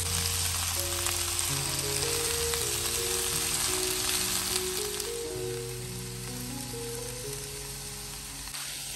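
Potatoes, broccoli, carrots and onion sizzling as they fry in olive oil in a frying pan, with a steady hiss that gets quieter about halfway through. Soft background music plays under it.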